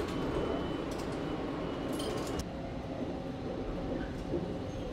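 Steady rumble of the Sunrise Seto sleeper train running, with a few metallic clinks of coins dropped into a shower-card vending machine in the first two and a half seconds.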